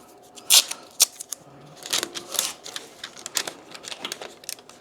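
Masking tape being pulled off the roll, torn and pressed down by hand: an irregular string of sharp crackles and ticks, the loudest near the start.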